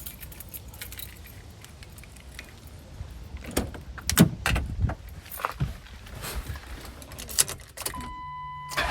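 Keys jangling with a series of sharp clicks and knocks as a Ford Crown Victoria's ignition is tried, with no engine cranking or running; the starter is locking up. A steady electronic tone, like the car's warning chime, starts near the end.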